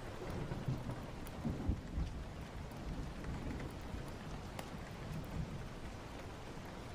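Steady rain with low rumbling thunder that swells about one to two seconds in and again around five seconds. A few sharp crackles from a fire stand out above the rain.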